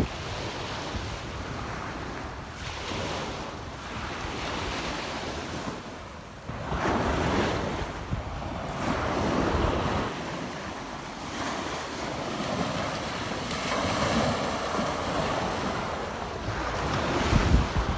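Small waves breaking and washing up a sandy beach, surging every few seconds, with wind on the microphone.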